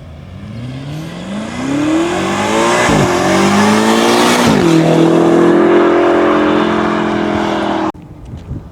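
BMW F90 M5's twin-turbo V8 through a valved catback exhaust, accelerating hard: the engine note climbs, drops sharply at two quick upshifts, then holds steady at a higher level. It cuts off suddenly near the end.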